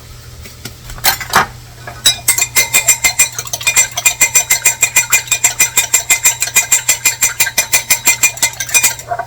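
An egg being beaten in a bowl, the utensil clicking rapidly against the bowl at about seven strokes a second. The beating starts about two seconds in, after a couple of single knocks, and stops just before the end.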